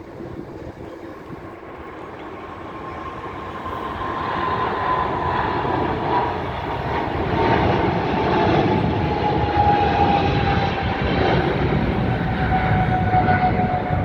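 Jet airliner's engines at takeoff power, a roar building over the first several seconds and then holding loud, with a high whine that slowly falls in pitch.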